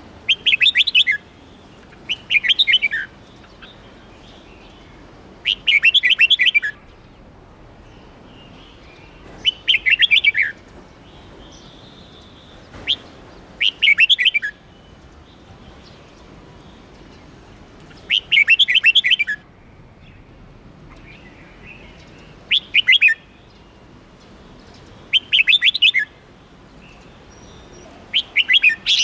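Red-whiskered bulbul singing: short, warbled phrases of about a second each, repeated every three to four seconds.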